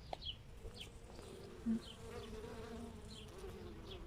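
A bee buzzing around flowers, its hum wavering in pitch as it moves and briefly louder a little under two seconds in. A small bird's short high chirps repeat in the background.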